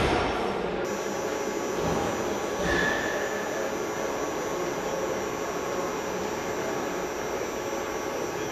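Steady factory-hall machinery noise with a hum, broken by a few metallic knocks in the first three seconds, the loudest about three seconds in.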